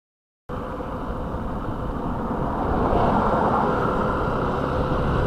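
Yamaha motorcycle engine running steadily, with road and street noise, cutting in abruptly about half a second in.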